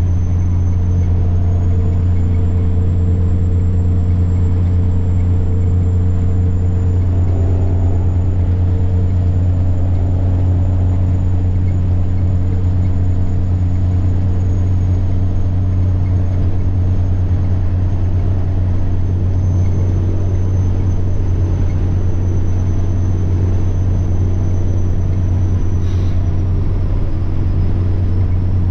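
Semi truck's diesel engine droning steadily at cruise, with a thin high-pitched turbocharger whine that slowly wavers and drifts lower.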